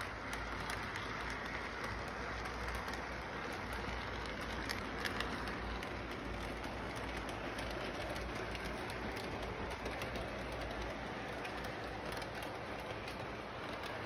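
A train running with a steady rumbling noise and a few faint clicks.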